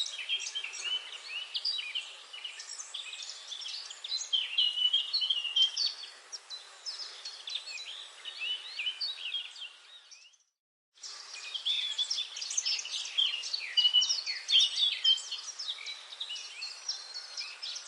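Forest birdsong: many birds chirping and trilling at once in a dense, overlapping chorus. The sound cuts out completely for about a second, about ten seconds in, then resumes.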